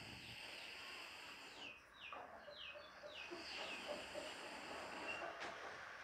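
A bird calling in a run of short, high chirps, each falling in pitch, about three a second for a couple of seconds in the middle, over a steady background hiss.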